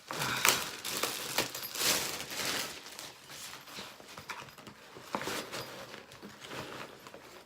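Packaging crinkling and rustling as a new tennis backpack is unwrapped and handled, in irregular bursts that are louder in the first few seconds and then softer.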